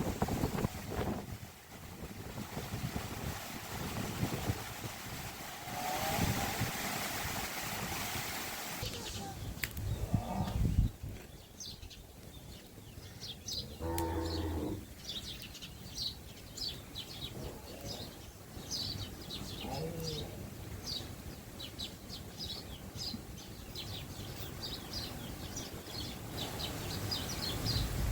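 Farmyard ambience: wind gusts early on, a short moo from a cow about halfway through, then birds chirping rapidly and repeatedly through the second half.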